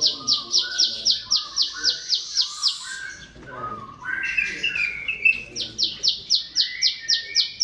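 Ciblek sawah, a small prinia, singing: a fast series of high, sharp notes at about four a second. About three seconds in, the series breaks for a couple of seconds of lower twittering phrases, then starts again.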